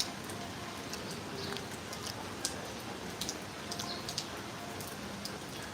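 Rain falling: a steady hiss of rain with scattered sharp drop ticks.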